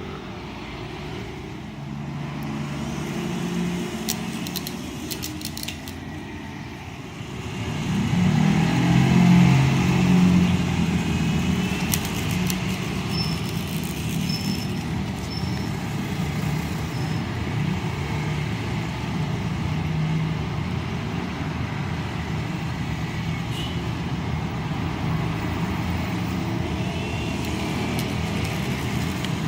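A motor vehicle's engine running nearby, a low steady hum that grows clearly louder about eight seconds in, with a few scattered clicks.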